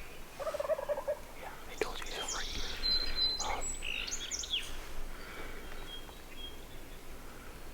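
Wild turkey gobbling: a short, rapid rattling call about half a second in, followed by songbirds chirping.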